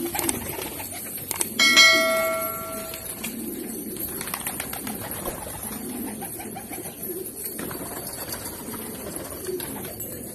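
Domestic pigeons cooing over and over in low, rolling calls. About one and a half seconds in, a single bell-like metallic ring sounds, the loudest thing heard, and fades out over about a second and a half.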